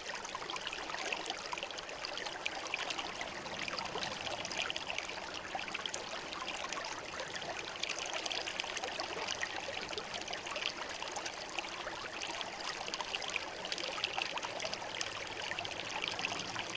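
A shallow river flowing steadily over stones, a continuous babbling and splashing of water.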